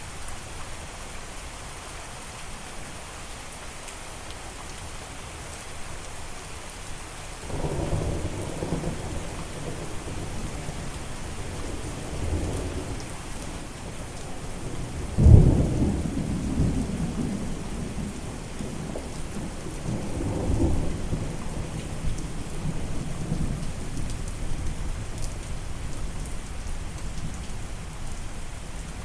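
Steady heavy rain with thunder rolling through it. A low rumble builds about a quarter of the way in, a sharp thunderclap comes near the middle (the loudest moment), and another rumble follows a few seconds later.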